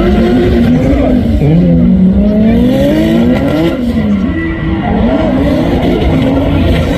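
Car drifting: the engine revs up and down several times under load while the tyres squeal and skid. The sound is loud and continuous.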